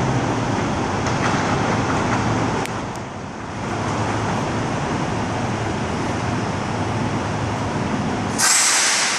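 Semi truck's diesel engine running with a steady low rumble, then a sudden loud burst of air hiss from the truck's air brakes about eight and a half seconds in.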